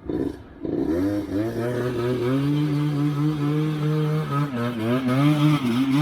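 Motorcycle engine revving up about a second in and holding a steady pull, then easing off briefly near the end before picking up again.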